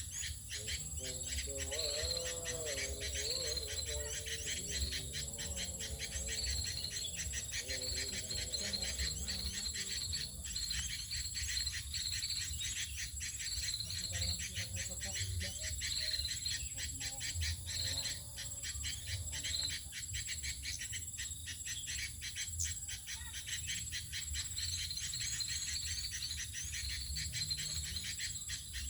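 Insects chirping in a fast, steady, dense trill in the forest, over a low rumble.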